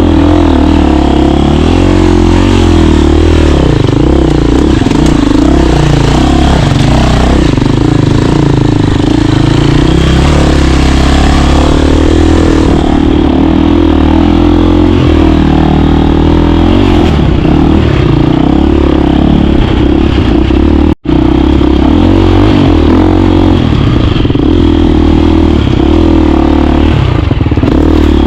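KTM 350 dirt bike's single-cylinder four-stroke engine running hard under riding, its pitch rising and falling as the throttle opens and closes. The sound is loud and close throughout, with one very brief dropout about two-thirds of the way in.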